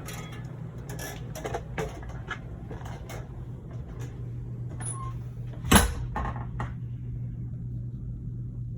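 Scattered clicks, creaks and knocks inside an RV's living area, with one sharp knock about six seconds in, over a steady low hum.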